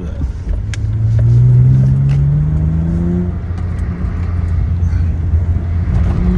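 Acura TL's V6 with the mufflers deleted, pulling under acceleration: the exhaust note climbs steadily in pitch for about two seconds, then drops back, as at a gear change, and runs on at an even pitch.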